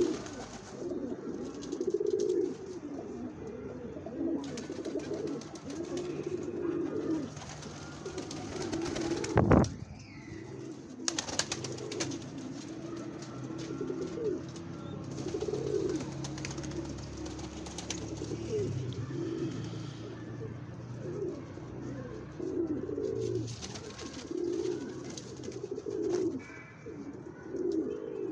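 Doves cooing over and over, several birds overlapping. A sharp knock sounds about nine and a half seconds in.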